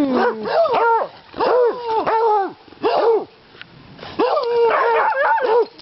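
Several beagles baying together in short, arching howls, with a lull about three seconds in and a longer held howl near the end.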